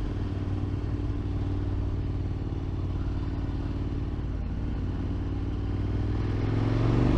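KTM motorcycle engine running at a steady cruise under a rush of wind, heard from a microphone inside the rider's helmet; near the end the engine note rises as the bike accelerates.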